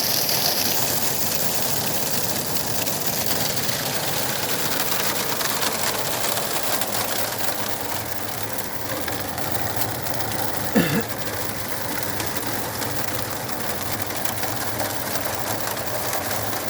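Heavy rain mixed with hail drumming on a vehicle's roof and windows, heard from inside the vehicle as a dense, steady patter. A short sound falling in pitch cuts in once, about eleven seconds in.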